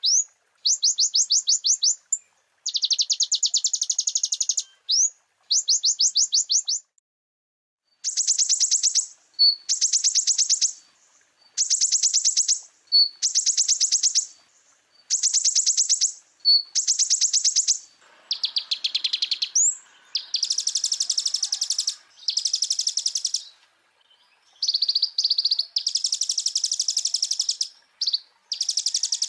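Kolibri ninja (konin) sunbird song: repeated high, rapid trills in phrases of one to two seconds with short pauses between them, the song 'full isian', laced with phrases of other birds.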